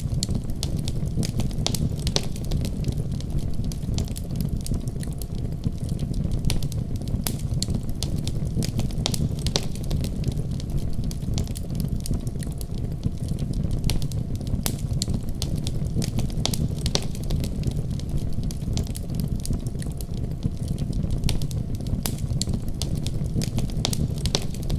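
Wood fire crackling and popping: a steady low rumble of flames with many irregular sharp snaps throughout.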